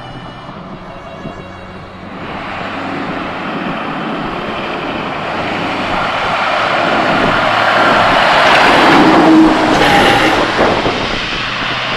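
A motor vehicle passing close by: a rush of engine and road noise that builds, peaks about nine seconds in, then fades.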